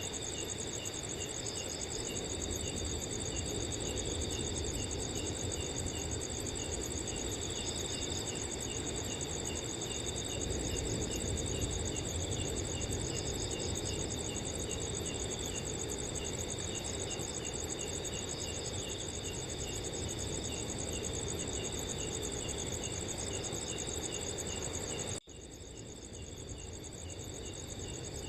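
A chorus of night crickets trilling steadily, with one chirping in a regular pulse, over a soft rush of wind noise. Near the end the sound drops out for an instant and returns quieter, swelling back up.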